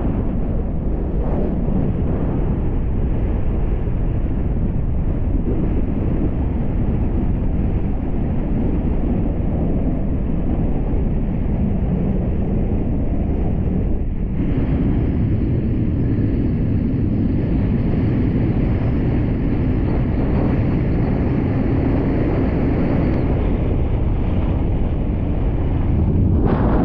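Steady wind buffeting the microphone over the rumble of a moving vehicle on the road, shifting slightly in tone about halfway through.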